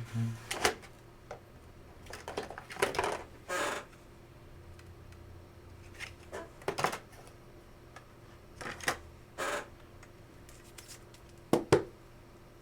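A trading card being fitted into a larger rigid plastic card holder: scattered clicks, short plastic slides and scrapes, and a pair of sharp clicks near the end, the loudest sounds.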